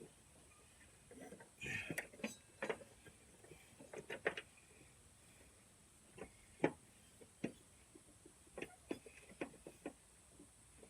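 Light metal clinks and clicks at irregular intervals, with a few sharper knocks, from hand tools and mower-deck parts being handled.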